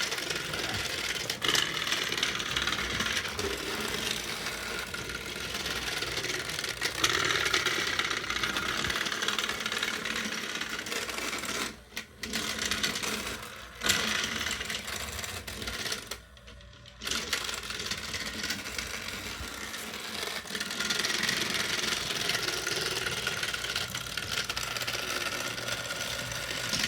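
Battery-powered toy train engines whirring, their small motors and gears rattling as two engines push against each other in a strength contest, with brief dips about twelve and sixteen seconds in.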